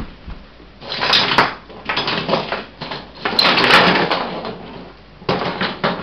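Toy monster trucks clattering as they are handled, in four short, irregular bursts of rattling and knocking.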